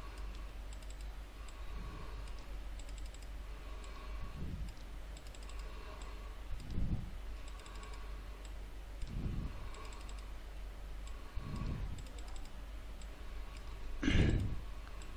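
Faint computer keyboard typing and mouse clicks, with a louder knock near the end.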